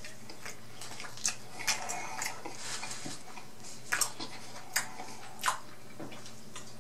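Close-miked chewing of a mouthful of fried chicken sandwich, with about seven sharp mouth smacks spread through the middle.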